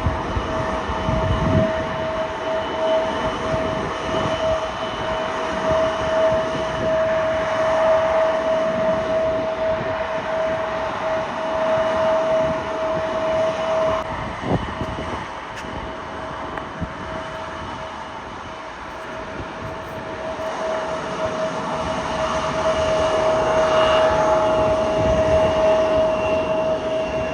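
Jet airliner engines running: a steady whine over a broad rush of noise. The whine fades out around the middle and the sound swells again near the end.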